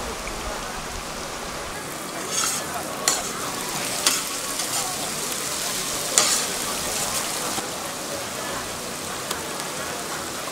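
Diced meat, sliced bell peppers and onions sizzling steadily in hot oil in a large steel paella pan, with a few short sharp clicks about 2, 3, 4 and 6 seconds in.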